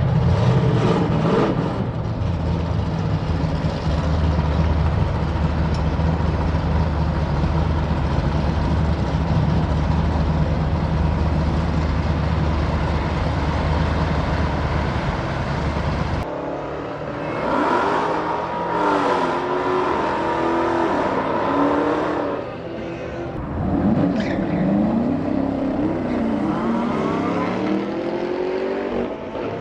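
Dodge Hemi V8 muscle cars: a loud, steady, deep engine rumble for about the first half, then, after a cut, engines accelerating hard in several rising sweeps of pitch.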